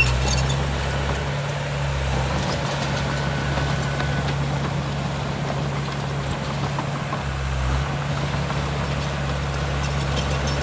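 Heavy diesel engine of earthmoving machinery running steadily at low revs, with a few light metallic clicks near the start.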